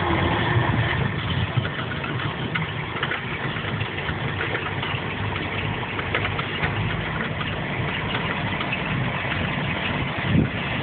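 MerCruiser 7.4 L V8 marine engine idling steadily, with faint irregular ticking over the engine hum: the strange noise the owner cannot account for. Near the end the pitch rises and falls briefly.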